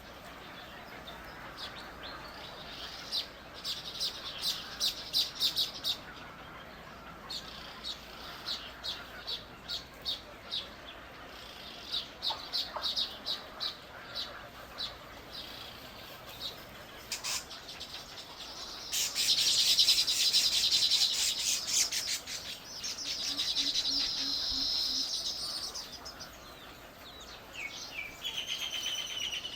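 Small songbirds chirping: series of short, high chirps, then a loud, rapid trill about two-thirds of the way in, followed by a steadier trill.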